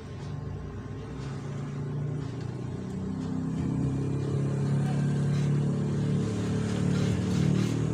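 A small machine running and speeding up: a steady mechanical hum that grows louder over the first few seconds, then holds.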